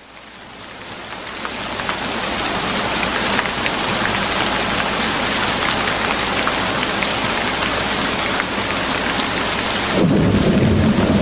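Steady rain, fading up over the first two seconds, with faint ticks of individual drops. About ten seconds in a low rumble of thunder sets in under the rain.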